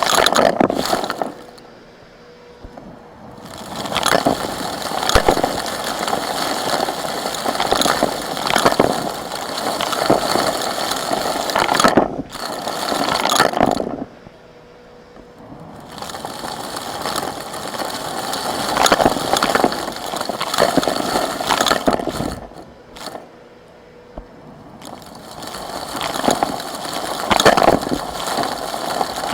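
Small rocks crunching, rattling and scraping together as they are worked with tools, in bouts broken by three short pauses.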